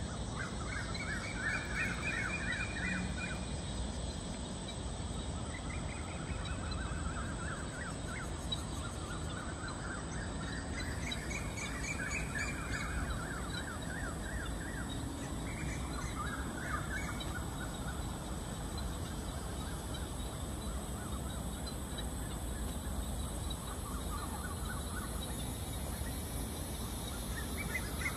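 Birds calling in short bursts of rapid, harsh chattering every few seconds, over a steady low rumble.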